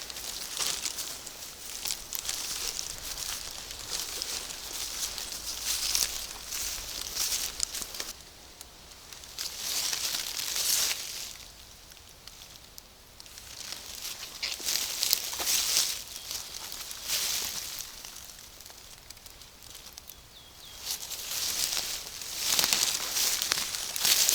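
Foliage rustling and brushing as someone moves through forest undergrowth and ferns. It comes in irregular spells with quieter pauses between them, with scattered small snaps and ticks.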